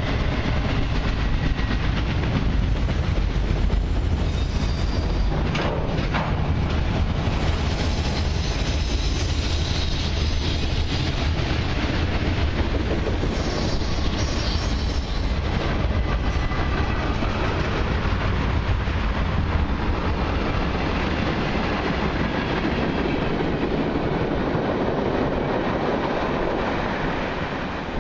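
Autorack and mixed freight cars rolling past: a steady rumble of steel wheels on rail with a clatter over the rail joints and a few faint wheel squeals. It fades near the end as the last car goes by.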